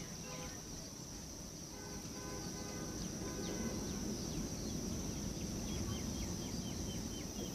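Insects trill steadily at a high pitch while small birds chirp over them, with a quick run of short descending chirps in the second half. A low rumble sits underneath.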